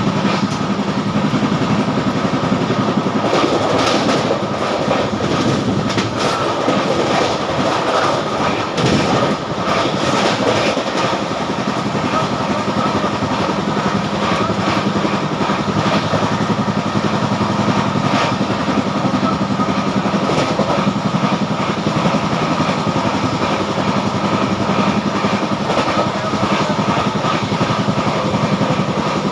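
Moving passenger train heard from on board: a steady loud rumble of the running coach with the wheels clattering over rail joints and points.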